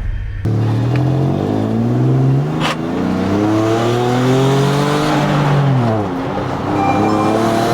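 Turbocharged Jeep Wrangler JK engine accelerating hard through the gears. The engine pitch climbs, drops at a shift about two and a half seconds in with a short sharp sound, then climbs again and falls off near the end.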